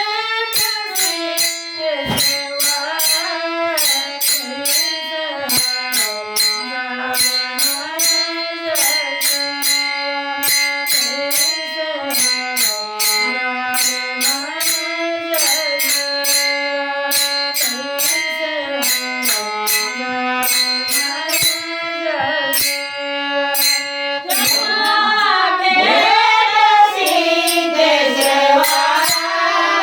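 A woman singing a Marathi folk song in a steady, stepping melody over sharp, regular percussion strikes. About three-quarters of the way through, the sound grows fuller and louder.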